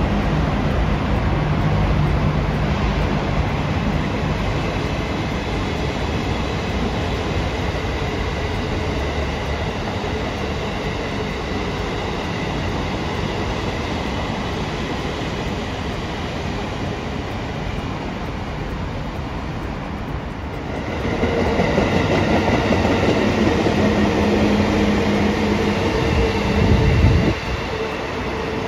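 Train running on the rails, a steady rumble. About twenty seconds in it grows louder with a steady hum, which drops away suddenly about seven seconds later.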